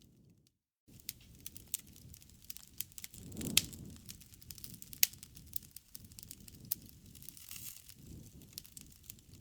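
Wood campfire crackling: dense small snaps over a low rumble of burning, with two sharp pops about three and a half and five seconds in. The sound drops out briefly just under a second in.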